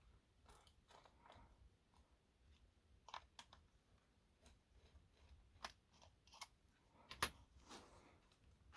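Faint, scattered small clicks and taps of a screwdriver and plastic parts as screws are taken out of a model locomotive and its plastic body shell is worked loose, the loudest click about seven seconds in.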